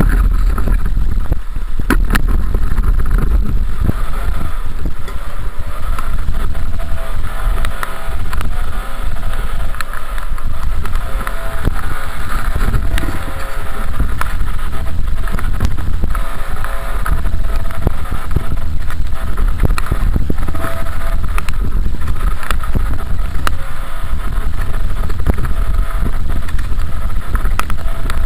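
Dirt bike engine running steadily while riding, with heavy wind rumble on the microphone.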